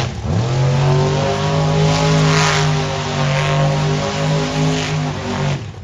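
Monster truck engine revving up and held at high rpm in a steady, loud drone, then cutting off abruptly near the end.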